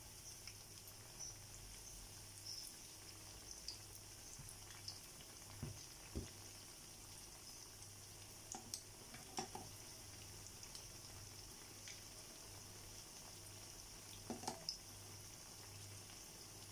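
Banana fritters in batter deep-frying in a pan of rice bran oil: a faint, steady sizzle with scattered small crackles. A few light knocks of the tongs against the pan come about six, nine and fourteen seconds in.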